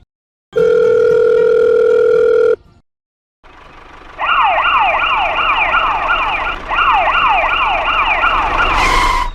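A steady electronic tone for about two seconds. After a short pause comes an electronic siren in fast rising sweeps, about four a second, in two runs with a brief break between them.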